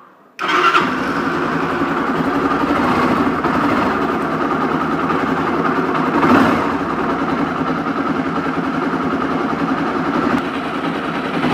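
Honda CB300 single-cylinder motorcycle engine starting about half a second in, then running steadily and cutting off near the end. This is the engine in which the owner hears an intermittent gritty noise, 'like sand' inside the engine, that a new cam chain and tensioner have not cured.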